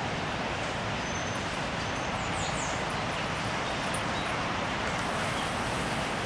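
Steady outdoor rushing background noise, like wind or distant traffic, with a few faint, short, high chirps from small birds about one and two and a half seconds in.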